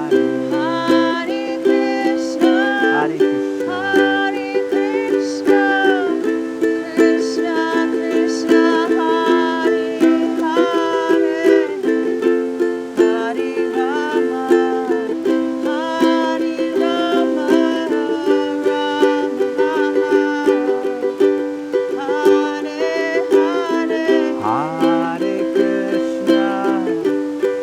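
Ukulele strumming a steady chord progression as kirtan accompaniment, the chords changing every couple of seconds, with a wavering higher melody line over them.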